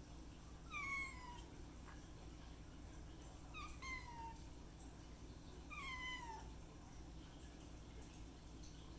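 A kitten meowing three times, a few seconds apart: short, high-pitched mews that each fall in pitch.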